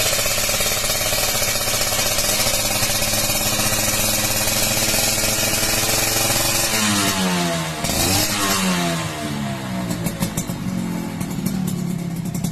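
Suzuki Crystal two-stroke motorcycle engine running through a Bpazz racing exhaust. It holds steady revs, then its pitch drops and swings about seven to nine seconds in before settling again.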